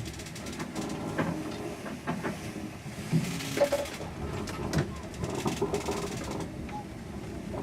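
Sailboat under way in strong wind: steady wind and water noise with repeated knocks, clicks and short creaks from the boat.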